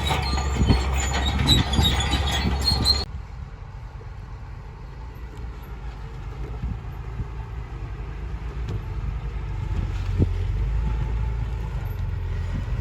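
Heavy machinery with its steel crawler tracks squealing and clanking, a high-pitched metallic squeal over a deep diesel rumble. About three seconds in it cuts off abruptly to a quieter low engine rumble that slowly grows louder.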